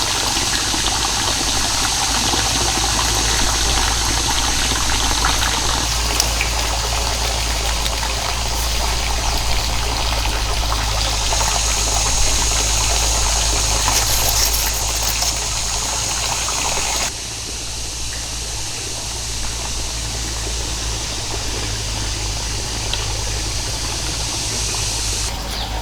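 Running water, a steady rushing trickle. It drops abruptly to a quieter, duller sound about two-thirds of the way through.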